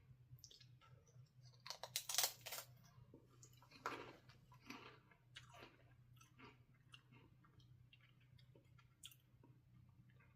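Ridge-cut potato chips being bitten and chewed, with the loudest crisp crunches about two seconds in and again near four seconds, then softer scattered crunching.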